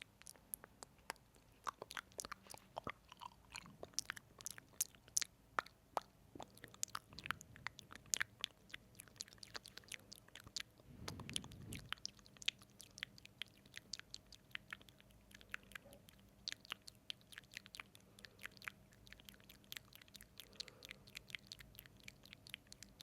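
Close-miked ASMR mouth sounds: rapid wet, sticky lip smacks and tongue clicks from lips coated in lip oil, many a second, with a brief low, breathy swell around the middle.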